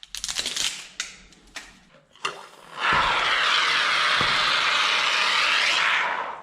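Aerosol spray can in use: a few sharp clicks and rattles, then about three seconds of steady, loud spraying hiss that stops abruptly.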